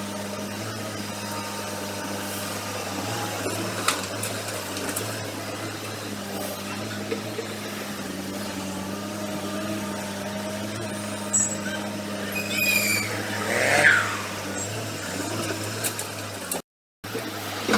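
Heavy diesel engine of construction machinery running steadily, with a few sharp knocks and, about thirteen seconds in, a short squeal that falls in pitch. The sound cuts out for a moment near the end.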